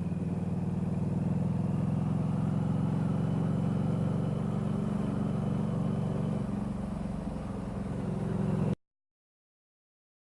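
Motorcycle engine running steadily at low revs, rising slightly just before the sound cuts out completely about nine seconds in.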